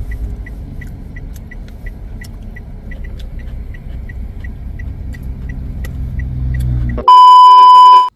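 A steady low rumble with a faint high tick repeating about three times a second. About seven seconds in it gives way to a loud, steady electronic beep tone lasting about a second.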